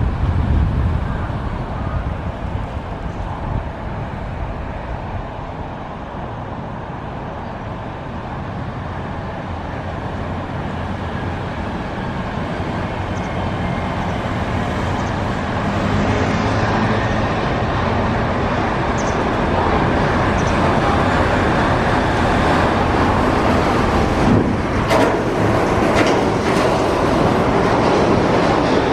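Shonan Monorail suspended train running, its rumble growing steadily louder through the second half, with a few sharp knocks near the end.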